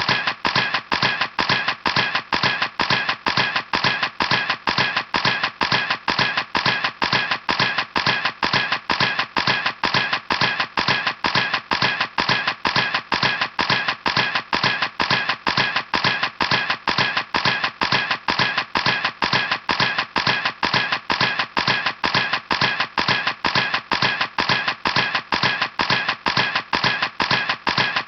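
Camera shutter clicking over and over in a fast, even rhythm, about three clicks a second.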